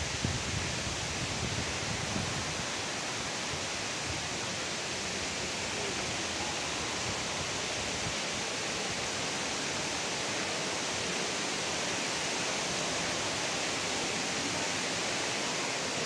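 Waterfall crashing down, a steady, even rush of falling water.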